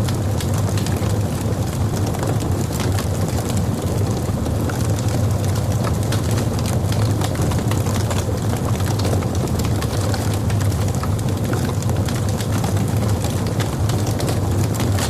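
Logs burning in a fireplace: a steady low rumble of the fire with frequent small, sharp crackles and pops scattered throughout.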